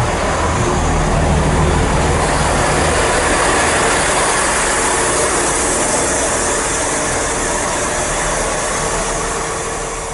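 A train moving past at the platform: steady engine rumble and wheel noise that eases a little near the end.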